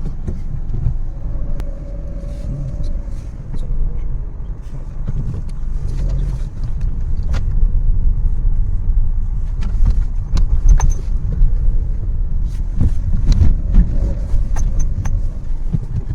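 A car on the move: a steady low rumble of engine and road noise, with occasional short knocks and clicks.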